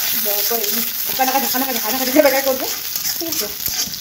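Chopped onion and garlic sizzling in hot oil in a kadai, stirred and scraped with a long spatula. A woman's voice sounds over the frying for the first two and a half seconds or so.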